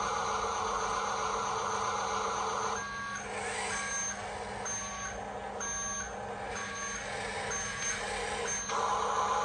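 Toy RC dump truck's electric drive whirring, then its reversing-alarm beeper sounding about three seconds in, seven evenly spaced beeps about once a second, with the motor noise quieter beneath them; the whirring picks up again near the end.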